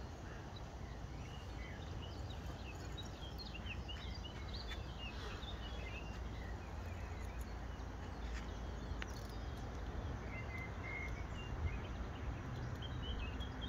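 Small birds chirping in short scattered calls, busiest in the first half and again near the end, over a steady low rumble.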